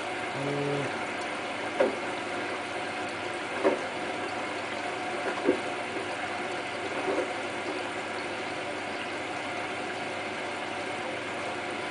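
Hotpoint Ultima WT960 washing machine filling, with a steady rush of water. A soft knock comes about every two seconds, and a short low tone sounds about half a second in.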